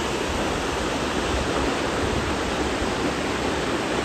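Steady rush of a waterfall's falling water, an even hiss with a rumble underneath.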